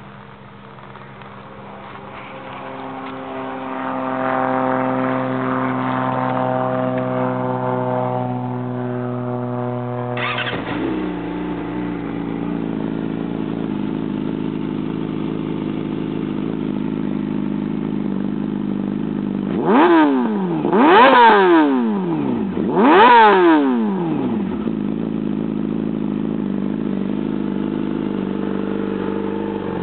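Yamaha R6 inline-four engine running through a Termignoni slip-on exhaust. It holds a steady raised speed for about ten seconds, then drops abruptly to idle. About two-thirds of the way through come three quick throttle blips, each rising and falling, before it settles back to idle.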